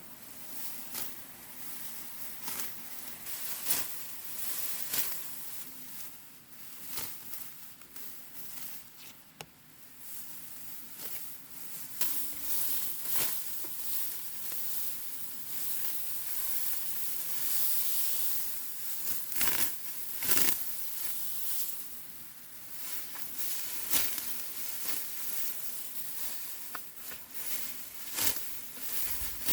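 Dry plant stalks rustling and crackling, with many irregular sharp snaps over a steady hiss.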